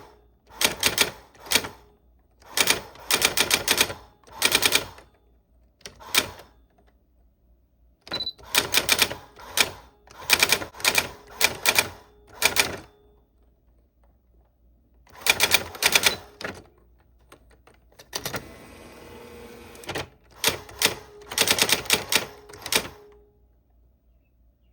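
Typewriter keys being struck in quick bursts of clacks, with short pauses between bursts. About eighteen seconds in there is a softer sliding noise lasting about two seconds.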